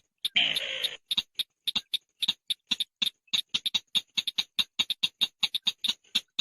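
Long-tailed shrike (chàng nghịch) calling: a harsh rasping call for the first second, then a rapid run of dry, clicking ticks at about seven a second.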